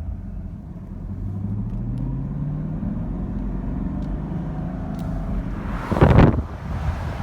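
Chevrolet Camaro 2SS's 6.2-litre V8 running under way, its pitch rising over the first few seconds as it speeds up, then holding steady. A short, loud rush of noise comes about six seconds in. No brake squeal is heard.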